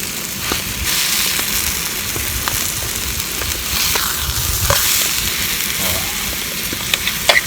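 Ribeye steak sizzling steadily in a frying pan on a gas camping stove, with a few sharp pops, the loudest near the end.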